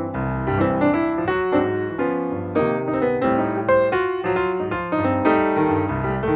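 Piano-led music, many notes struck in quick succession over a bass line.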